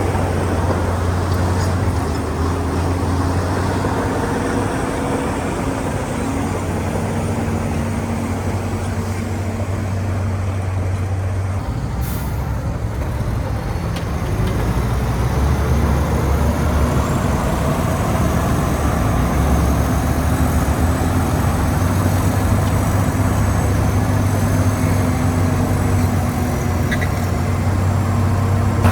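Heavy diesel engine of earth-moving machinery running steadily, its low note changing about twelve seconds in as the load or engine speed shifts.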